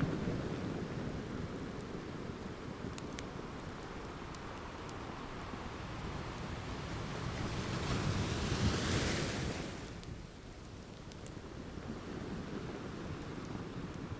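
Ocean surf washing in, one wave building and breaking loudly about two-thirds through, then falling back. Scattered faint crackles of a wood fire pop over it.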